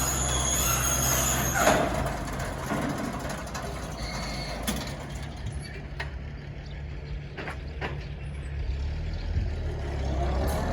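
Oliver farm tractor engine running steadily, with a high metallic squeal from the machinery over the first couple of seconds and a few sharp clicks later on.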